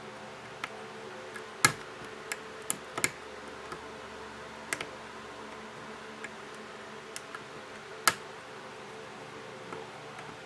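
Small sharp clicks and taps of a repair tool working at the flex-cable connectors inside an opened smartphone. About eight scattered clicks, two of them louder, over a steady faint hum.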